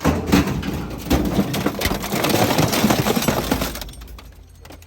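Industrial scrap shredder tearing up a household appliance, a dense run of cracking and crunching of metal and plastic. Near the end the crunching dies away, leaving a steady low hum from the machine.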